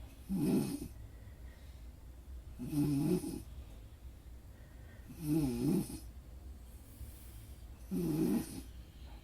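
Snoring: four snores about two and a half seconds apart, each under a second long and wavering in pitch, with a low steady hum between them.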